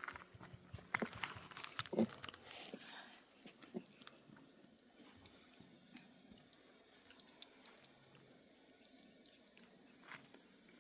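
An insect trilling steadily on one high pitch with rapid pulses. There are scattered light knocks and scuffs, mostly in the first few seconds.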